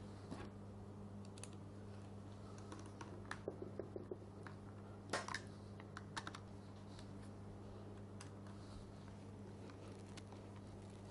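Scattered light clicks and taps of small parts being handled as the switch and its wiring are fitted into a Bosch GSH 5 demolition hammer's housing, with a quick run of clicks about three to four seconds in and the loudest click about five seconds in. A steady low hum runs underneath.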